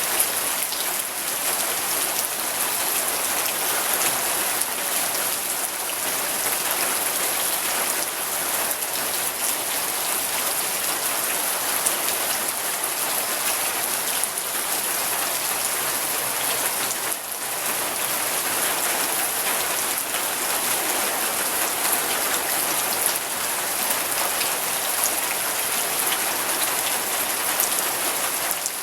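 Steady rain falling, an even hiss of many drops with scattered individual drop ticks, and a brief dip about 17 seconds in.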